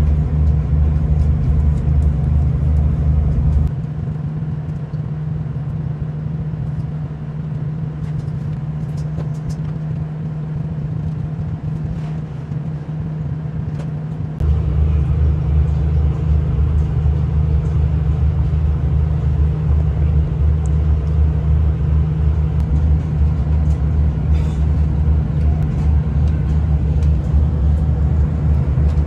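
Diesel passenger train running, heard from inside the carriage: a steady low drone that drops back about four seconds in and comes back up about fourteen seconds in, with a few faint clicks.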